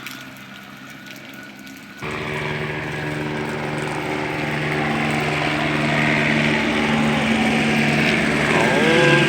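Police helicopter flying overhead: its steady rotor and engine sound starts abruptly about two seconds in and grows louder as it comes closer.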